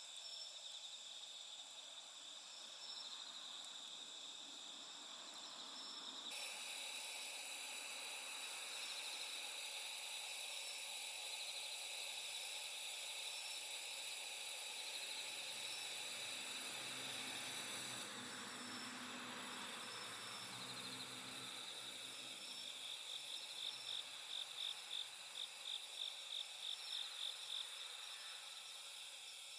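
Night insects singing: a steady, high trilling throughout, joined for a stretch in the middle by a second, hissier trill that starts and stops abruptly. Near the end one insect chirps in an even pulsed series, about three chirps a second.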